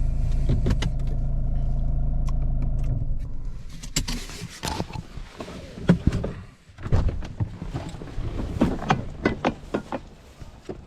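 Vehicle engine running with a steady low hum, which stops about three seconds in. Then come a series of irregular clicks and knocks.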